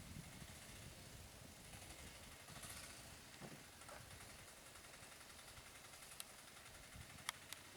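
Near silence: a faint steady hiss, broken by two sharp clicks near the end.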